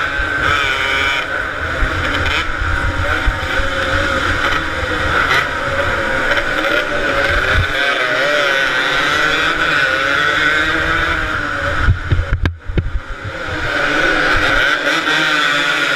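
Two-stroke motorcycle engines racing, their pitch wavering up and down with the throttle as the bikes run. A brief knock and drop in level come about twelve seconds in.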